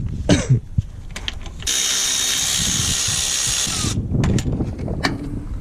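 Cordless power wrench spinning a bell housing bolt out for a bit over two seconds, about a second and a half in, after the bolt has been cracked loose by hand. Scattered clicks and knocks of the socket and tool come before and after the run.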